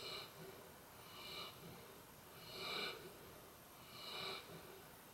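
A sleeping dog snoring, with a whistling wheeze on each breath. Four faint snores, about one every second and a half.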